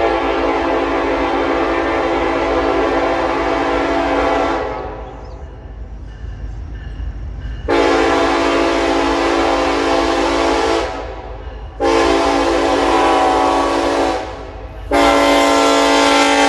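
Freight locomotive air horn sounding the grade-crossing signal: two long blasts, a short one, then a long one, each a chord of several steady notes.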